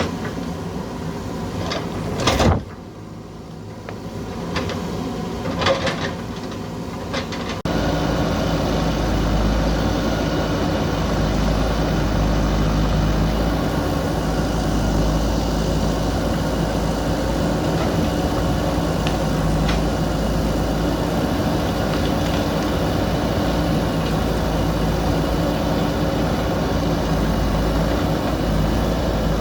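JCB backhoe loader's diesel engine running, with a few sharp knocks in the first several seconds. About a third of the way in it changes abruptly to a louder, steady engine sound with a strong low rumble.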